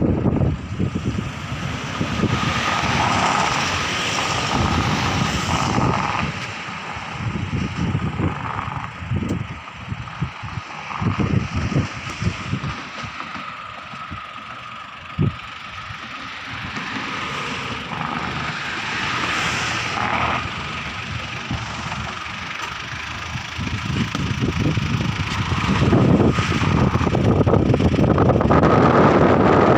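Wind buffeting the microphone in irregular gusts over the steady running noise of a vehicle, with a faint steady whine throughout.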